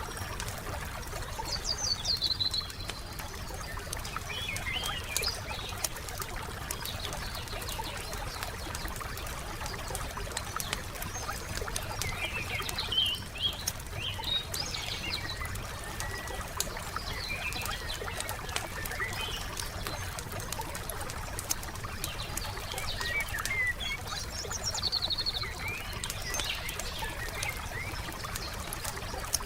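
Wood fire crackling steadily with dense small pops, while songbirds chirp in short phrases every several seconds.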